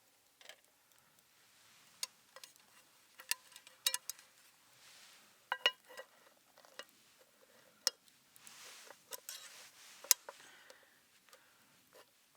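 Scattered clinks and taps of cookware and utensils being handled, a few of them with a short metallic ring.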